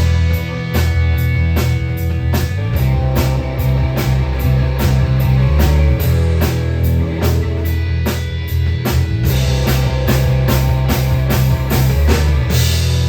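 Rock song with drum kit, bass and electric guitar, playing a steady driving beat.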